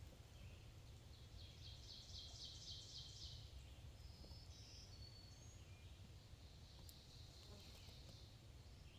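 Faint birdsong over a low steady background rumble: a rapid series of repeated high notes about a second in, a few short high notes in the middle, and another high phrase near the end.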